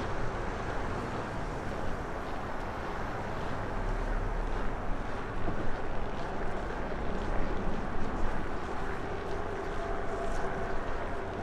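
Strong wind buffeting an unshielded microphone in a snowstorm: a continuous rushing rumble with irregular gusty thumps.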